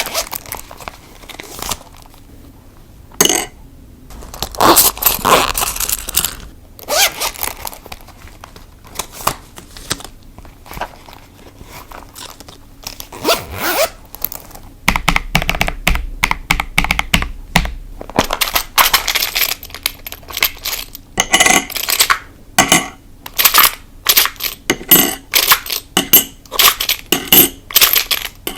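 Cash being handled close to the microphone: paper banknotes rustling and swishing as they are sorted and counted, with coins clinking and many short clicks and taps of wallet and envelopes. The handling grows busier in the second half.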